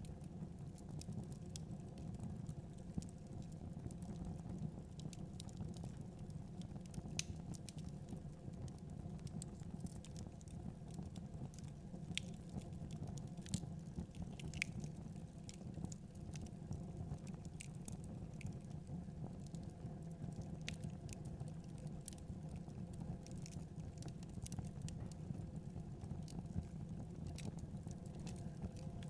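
Wood fire in a fireplace crackling, with scattered sharp pops at irregular intervals over a steady low rumble.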